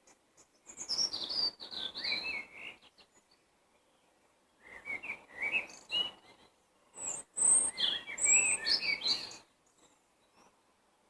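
Songbird song in three quick phrases of varied chirps and whistles, each about two seconds long, with short pauses between.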